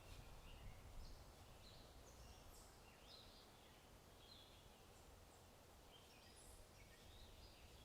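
Faint birdsong: scattered short chirps and trills over a low, steady rumble.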